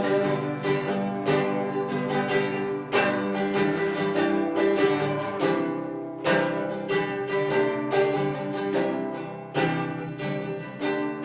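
Acoustic guitar playing strummed chords that ring on between strums, without singing.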